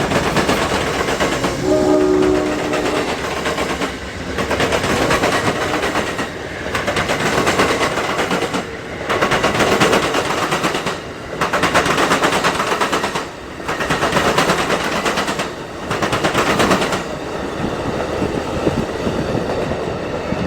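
A diesel freight train passing close by. Its horn sounds briefly about two seconds in, followed by loud rolling noise and wheel clatter that swells and dips about every two seconds.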